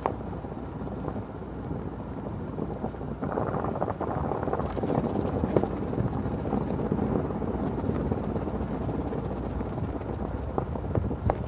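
Wind buffeting the microphone, a rough, noisy rumble that grows stronger about three seconds in.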